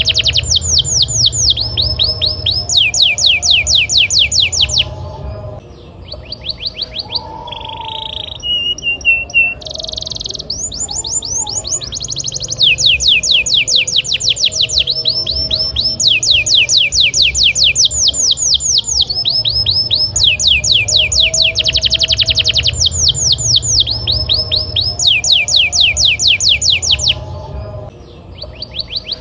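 Domestic canary singing hard in long rolling trills: rapid runs of repeated high notes, each run several seconds long. The first phrase breaks off with a few short separate notes, then the song goes on in long unbroken trills before a short lull near the end.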